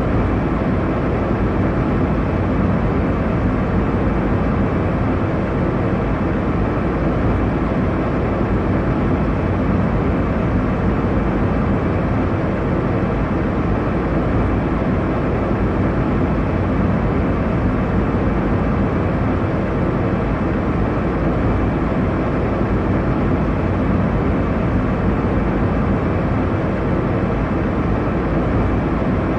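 Airliner cabin noise in cruise: a steady, deep rushing of engine and airflow noise with no change.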